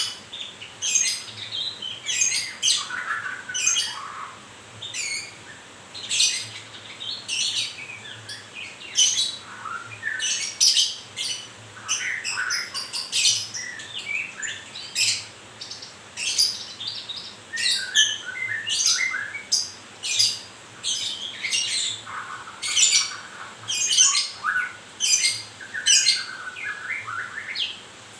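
White-rumped shama (murai batu) singing in short, sharp, varied phrases of high whistles and chips, a new phrase every second or so.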